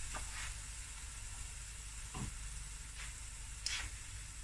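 Onions, garlic and spices with a dollop of tomato puree frying in oil in a stainless steel pot, sizzling steadily, with a few faint short ticks.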